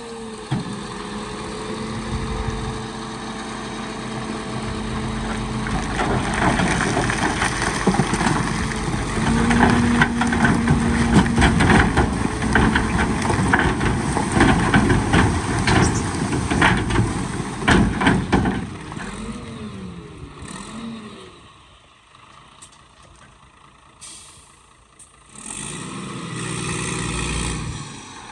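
Heavy diesel earthmoving machinery running, with dense clattering and crunching from about six seconds in that dies away around eighteen seconds. It drops to a quieter lull, and engine sound comes back near the end.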